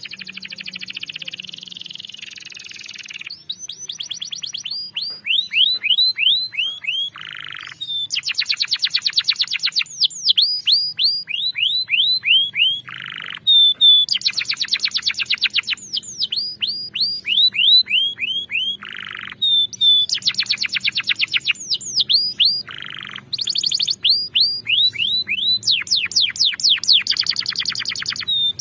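Domestic canary singing a long song of trills: fast runs of quick, falling whistled notes, each run repeated many times, alternating with short buzzy rolls.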